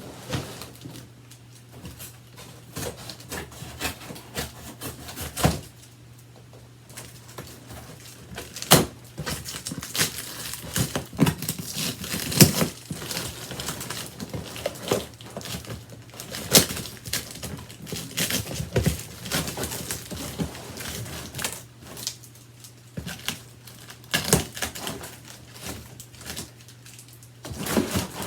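Cardboard shipping box being opened by hand: irregular crinkling, rustling and tearing of cardboard and packing, with several sharp knocks.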